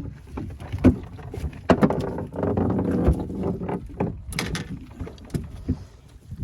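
Knocks and clatter of fishing gear being handled in a small aluminium dinghy, as a tangled line is worked on. There is a longer rush of noise about two to three seconds in.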